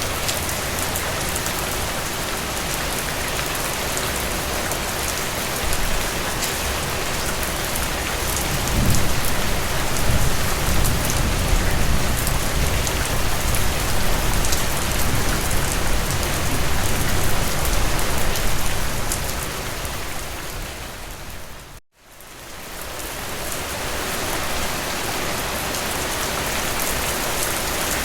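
Steady rain falling, with fine drop ticks over an even hiss. About a third of the way in, a deeper low rumble swells under it for several seconds. About three quarters of the way through, the sound fades briefly to silence and then fades back in.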